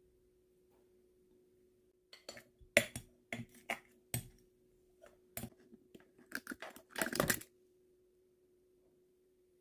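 A series of light clicks and taps, as of small objects being handled and set down, bunched together over several seconds, over a faint steady hum.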